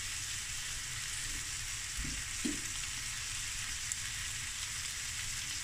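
Boneless chicken thighs sizzling steadily in a stainless steel frying pan while a fork turns the pieces, with a couple of soft knocks about two seconds in.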